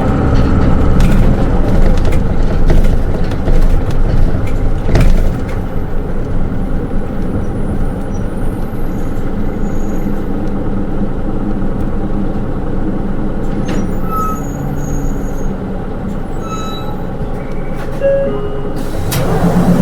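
Interior running sound of a Hino Rainbow II SDG-KR290J1 city bus: steady diesel engine and road rumble with a few sharp rattling clicks in the first seconds, and a loud hiss of air near the end.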